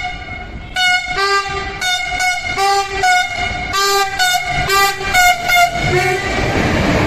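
Diesel locomotive horn sounding a rapid series of short blasts, about two a second, some blasts adding a lower second tone. About six seconds in the blasts stop and the rumble of the passing train takes over.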